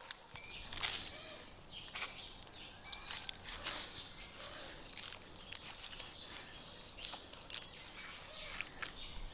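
Birds chirping now and then, over irregular rustling and light taps from handling.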